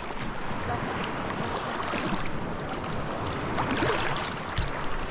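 Sea water sloshing and splashing close to the microphone, a steady wash with scattered crackling splashes.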